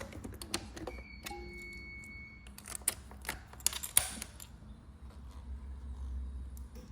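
Clicks of the ignition key and switches on a 2000 Aprilia RSV Mille R, with a steady electronic beep from about one second in, lasting about a second and a half, as the ignition is switched on before starting.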